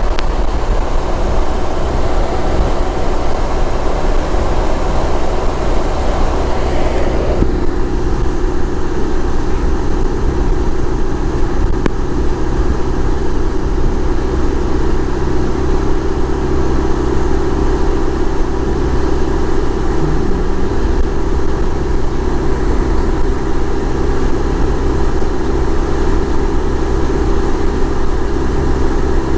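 BMW R1200 motorcycle's boxer-twin engine running steadily while being ridden, with wind noise over it; the hiss of the wind drops away abruptly about seven seconds in.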